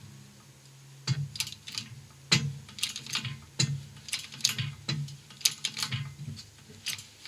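Hand-pumped lever of a 6-ton hydraulic shop press being worked to force a wheel bearing out of its hub, a series of irregular sharp clicks starting about a second in.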